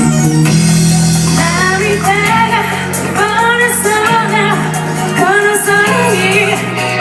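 Live band music with a female voice singing over sustained chords.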